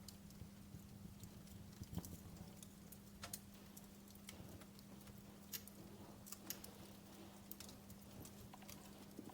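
Wood fire crackling faintly: sparse sharp pops and snaps, a few louder ones about two seconds in and past the middle, over a faint steady low hum.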